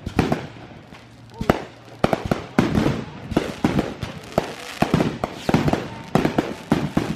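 Aerial fireworks going off in quick succession: a barrage of booms and sharp cracks, several a second at times, with echoing tails.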